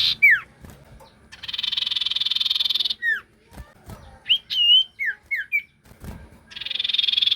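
Sirtu songbird singing: rapid buzzy trills about a second and a half long, alternating with short clear whistled notes that slur downward.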